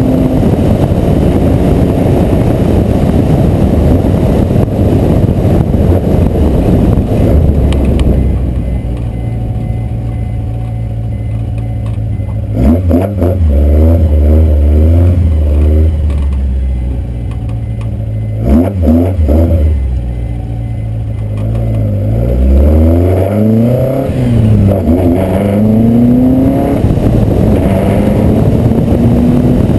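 VW Corrado race car's 2.0 16-valve four-cylinder engine pulling hard, then dropping to a quieter steady drone about eight seconds in. There are two short, sharp throttle blips, then the revs rise and fall several times before it pulls hard again near the end.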